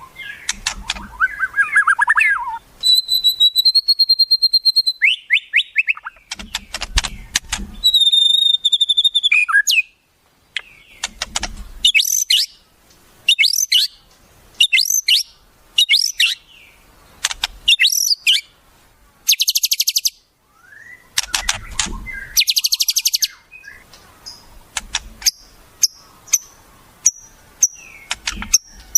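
A recording of varied wild bird songs and calls: held whistled notes, fast rattling clicks, short sharp chirps and a high buzzy trill, one after another. It is masteran, wild-bird song played to teach oriental magpie-robins new phrases.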